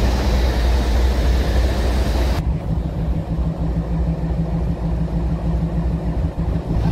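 A vehicle engine running steadily with a low hum. About two and a half seconds in, the hiss above it drops away suddenly, as at a cut, while the hum carries on.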